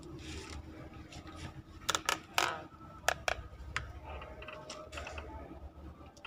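Irregular sharp clicks and taps, a few close together about two seconds in and more spread out after, over a low steady room hum.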